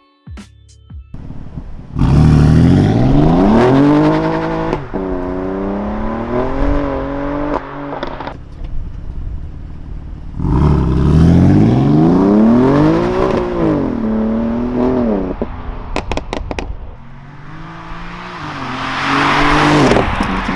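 BMW M4's S55 twin-turbo straight-six engine revving three times, the pitch climbing and falling with each rev. There are a few sharp exhaust cracks after the second rev.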